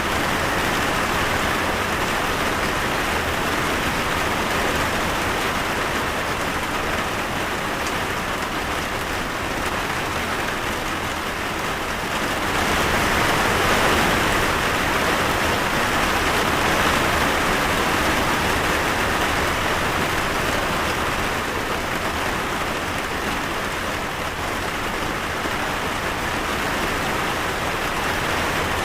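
Steady rain falling, an even hiss of many drops. It grows a little heavier about twelve seconds in and eases again later.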